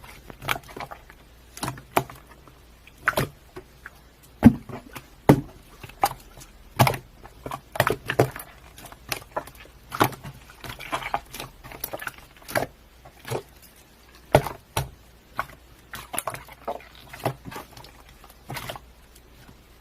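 Irregular sharp clicks and taps, one or two a second at uneven intervals, over a faint low hum.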